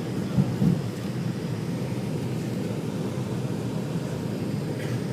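Steady low rumble of a jet airliner heard from inside the passenger cabin, with two brief knocks about half a second in.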